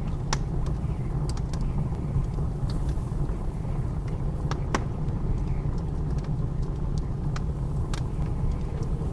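Wood fire crackling, with scattered sharp pops about a dozen times, over a steady low roar of blizzard wind.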